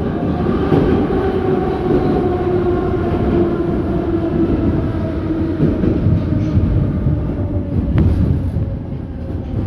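81-717.6 metro train running through a tunnel, heard from inside the car: a loud, steady rumble of wheels on rail with a drive whine that slowly falls in pitch as the train slows for the station. One sharp click about eight seconds in.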